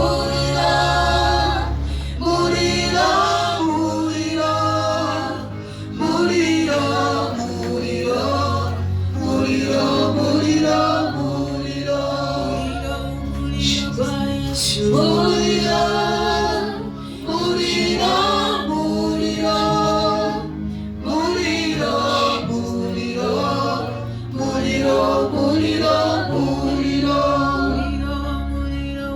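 Gospel worship music: voices singing together over a steady bass accompaniment.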